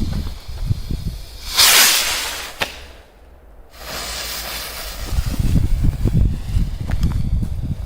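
A small firework rocket launching with a short, loud hiss about one and a half seconds in, followed by a single sharp crack. Low rumbling noise fills the second half.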